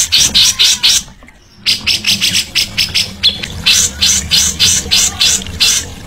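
A songbird singing a fast run of short, harsh, rasping notes, about five a second, with a brief break about a second in.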